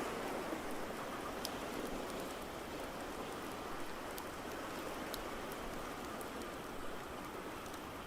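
Wood fire crackling, with sharp pops about twice a second over a steady rushing hiss of water.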